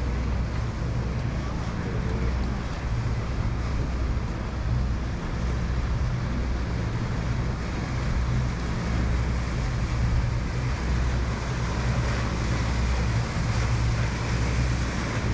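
A steady low engine-like hum with a continuous rushing, wind-like noise over it.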